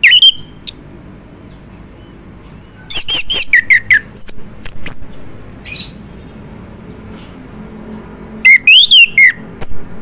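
Male chestnut-capped thrush (anis kembang) singing in loud bursts of clear, sweeping whistled notes, with pauses between phrases: a short phrase at the start, a longer run about three seconds in, and another run near the end.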